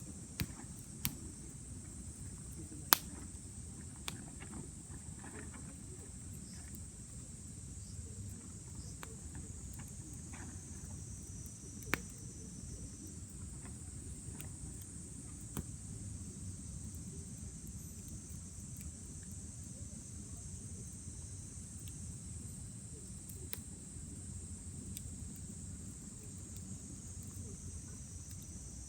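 Wood campfire crackling, with a few sharp pops, the loudest about 3 seconds and 12 seconds in, over a low steady rumble. A steady high chirring of insects runs underneath.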